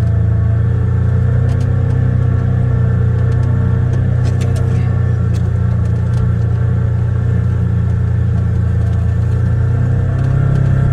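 Polaris Ranger 1000 XP side-by-side's twin-cylinder engine running steadily under way, heard from inside the cab, easing off slightly past the middle and picking up again near the end. A few faint ticks sound over it early on.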